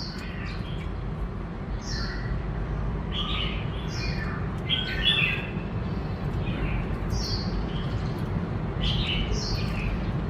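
Black-throated laughingthrush (khướu bạc má) giving a string of short, high chirping notes, one or two a second, over a steady low background hum.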